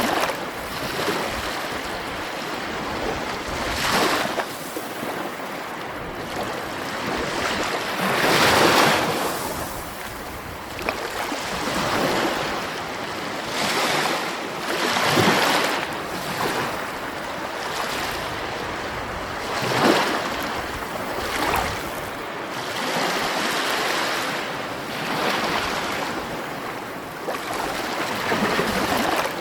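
Sea waves breaking and washing onto shore over a constant surf hiss, with a louder surge about every five seconds.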